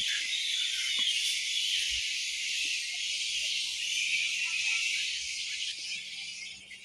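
Steady, high-pitched chorus of insects, a dense shrill hiss that grows fainter near the end.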